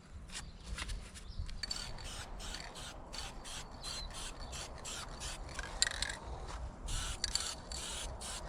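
Paint being worked onto a Mitsubishi L300 van's bodywork in quick, repeated strokes, several a second.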